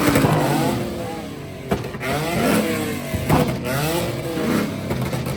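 Car engine being revved hard at a standstill, its pitch sweeping up and falling back several times in quick succession.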